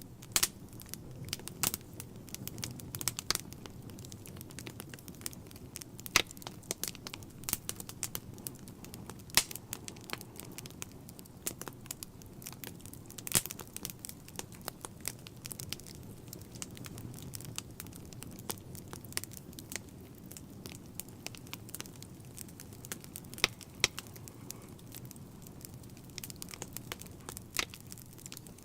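Wood fire burning in a fireplace: irregular sharp crackles and pops, scattered a few per second, over a steady low rumble of the flames.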